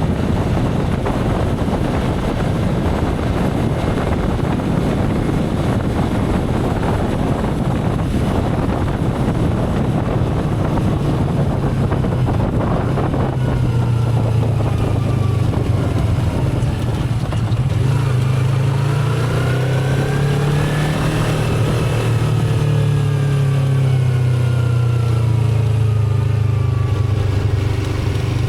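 Motorcycle riding, with wind and road rush at first. From about halfway the engine's steady low hum comes through more clearly, and its pitch rises and then falls about two-thirds of the way in.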